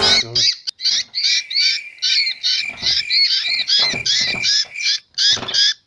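Birds calling in a rapid run of short, high chirps and squawks, about four a second and without pause.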